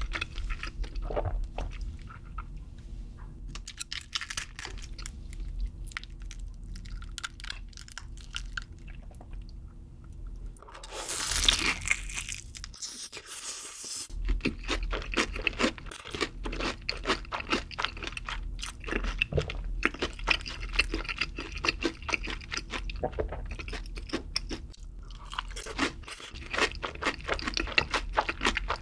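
Close-miked chewing and crunching of fried chicken, many small crackling crunches. About eleven seconds in, a louder rushing noise lasts a couple of seconds.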